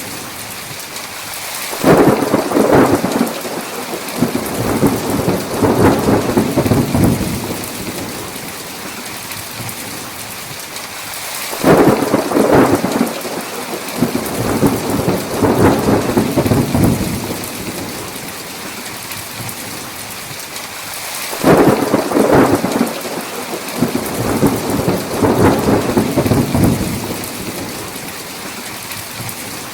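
Steady heavy rain, with three peals of thunder about ten seconds apart. Each peal starts with a sharp crack and rolls on for several seconds before fading back under the rain.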